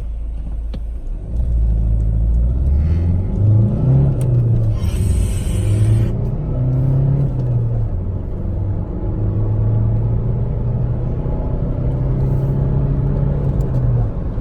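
Opel Astra 1.6 CDTI four-cylinder turbodiesel accelerating hard with a manual gearbox. The engine note climbs in pitch from about a second in and falls back at each gear change, under road noise. A short burst of hiss comes about five seconds in.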